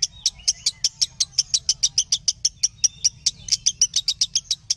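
Lovebird chattering in a fast, unbroken run of sharp, high chirps, about nine or ten a second: a masteran (pancingan) call meant to trigger other lovebirds into answering.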